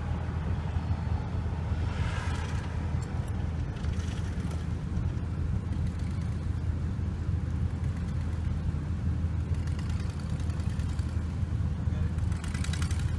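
Car driving with a steady low engine and road rumble, heard from inside the cabin, with brief hissy swells about two seconds in and again near the end.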